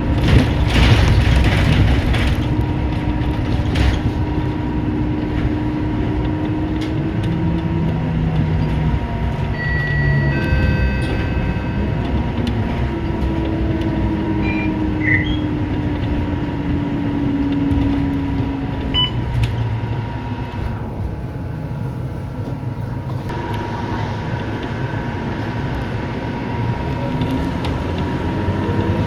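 Scania K230UB city bus heard from inside the cabin while driving: the diesel engine runs under load, its pitch rising and falling over several seconds as the bus speeds up and eases off, over steady road and body rumble. A short high beep sounds about ten seconds in.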